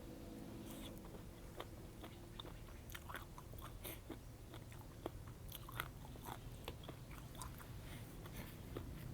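A person chewing and smacking while eating spicy seafood papaya salad with squid and mussels: soft, irregular wet mouth clicks, with a steady low hum underneath.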